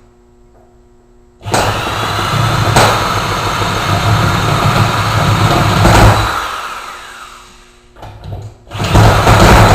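Hand-built miniature engine being cranked by an electric drill motor: it spins up loudly about a second and a half in, runs for about five seconds, then winds down with a falling whine. Near the end it is cranked again and starts up loud.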